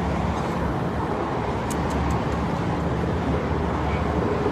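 Steady road traffic noise: a continuous rumble with a low hum, and a few faint ticks about two seconds in.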